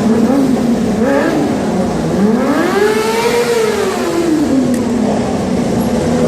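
Racing motorcycle engine passing the circuit: its pitch climbs smoothly, peaks about halfway through, then falls away, over a steady background engine hum.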